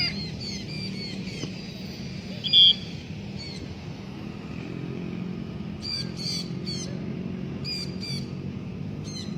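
Short squawking calls and chirps of a parrot, repeated at intervals, the loudest about two and a half seconds in, over a steady low hum.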